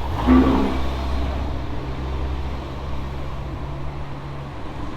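A car engine running with a steady low note. A short, loud pitched sound comes just after the start, and the engine note drops away about four and a half seconds in.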